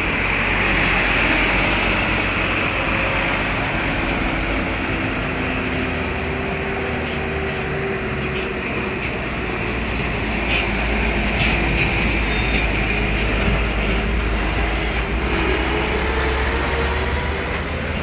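A large bus running on the road close by, a steady rush of engine and tyre noise that swells a little about a second in and again later on.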